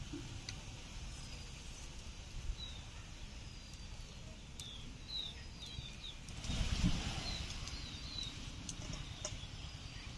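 Small birds chirping repeatedly in short, falling chirps, with scattered faint clicks. About six seconds in, a brief rush of noise lasts a second or two.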